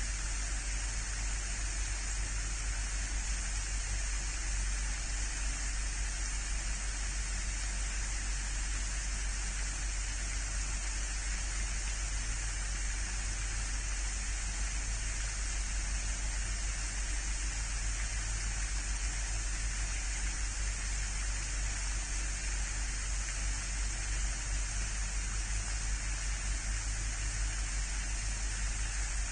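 Steady, unchanging hiss with a low hum underneath and no distinct events: outdoor background noise picked up by a pond-side livestream microphone.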